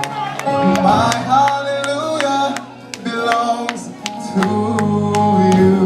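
Live worship band music between sung lines: sustained chords with regular percussion ticks, and a voice sliding through short wordless phrases.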